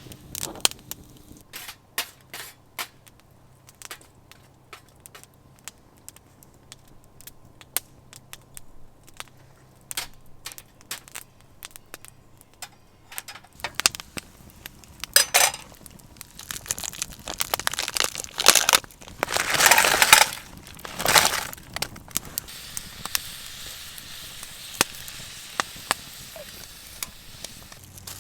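Campfire crackling with scattered sharp pops and snaps. From about halfway in, louder crunching, crumpling bursts join in, and these are the loudest part.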